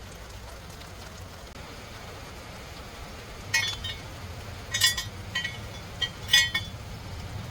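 A few sharp metallic clinks with a brief ring, as of metal tools or parts striking each other, about five over three seconds in the second half, over a steady low hum.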